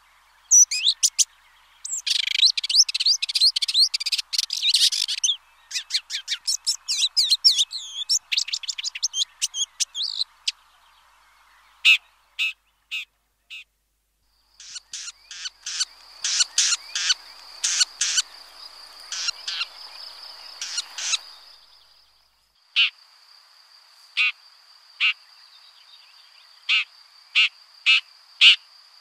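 Red-backed shrike vocalising: a rapid, dense chattering song for about the first ten seconds, then a run of separate sharp, short call notes, spaced about a second apart near the end. From about halfway in, a steady high buzz runs behind the calls.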